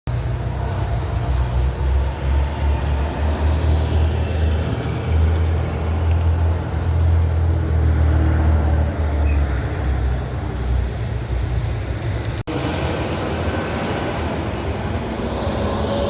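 Heavy diesel trucks running on a road: a steady, deep engine rumble with the sound of passing traffic, broken by a brief dropout about three-quarters through.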